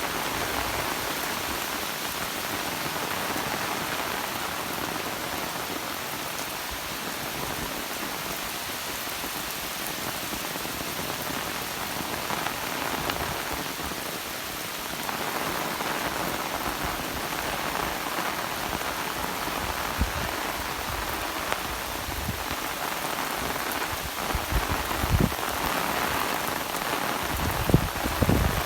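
Steady rain falling, an even hiss of drops throughout, with a few short low thumps in the second half.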